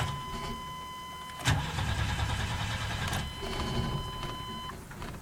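1996 Chevy pickup's starter cranking the engine over with a steady whine, without it catching after it has sat unstarted for a month. There is a sharp click about a second and a half in, and the cranking stops near the end.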